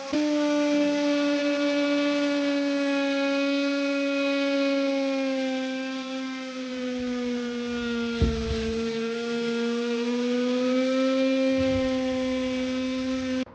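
A small electric motor running with a steady, high whine; its pitch sags a little about halfway through, with a single knock, then rises back, and the sound cuts off abruptly at the end.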